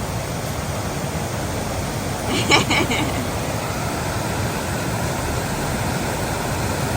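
Steady rush of flowing water, with a brief voice about two and a half seconds in.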